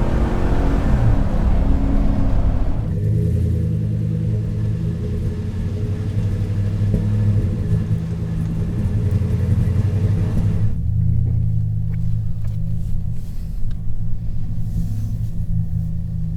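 A Chevrolet Silverado 1500's 5.3L V8 running through a C&L dual cat-back exhaust with a chambered muffler: the revs fall back in the first few seconds, then it settles into a steady low idle rumble. About eleven seconds in, the sound turns duller, its upper part falling away.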